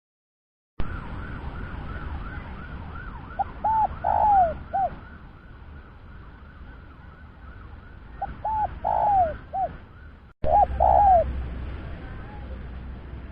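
Spotted dove (tekukur) cooing: three phrases of short, rounded coo notes with one longer wavering note in each. Behind it a fainter, rapid repeated chirping and a steady low rumble.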